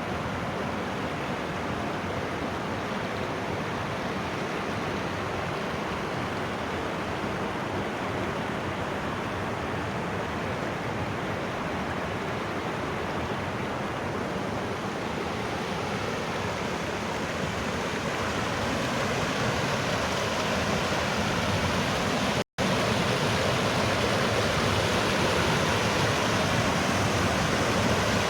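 Rushing water of the Putna river in a mountain riverbed: a steady roar that grows louder past the middle and breaks off for an instant near the end.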